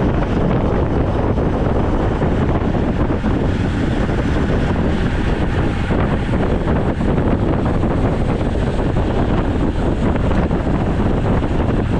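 Wind rushing over the microphone of a camera on a moving road bike: a steady, loud rush strongest at the low end.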